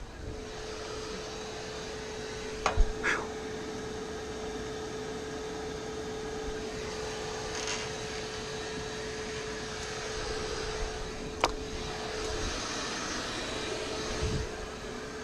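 Bee vacuum running steadily with a constant hum as it sucks up bees from the hive, with a few sharp knocks along the way.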